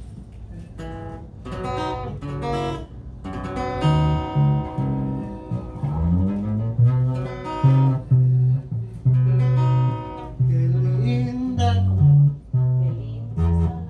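Live instrumental music: an acoustic guitar strumming chords over low sustained bass notes that change every second or so.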